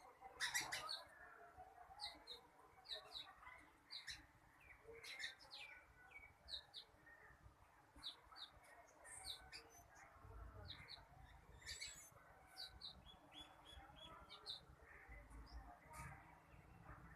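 Birds chirping faintly, with many short, high chirps coming in quick succession.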